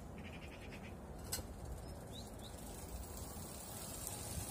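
Small birds chirping: a quick trill in the first second and a few short rising chirps near the middle, over a steady low background noise, with a single sharp click about a second and a half in.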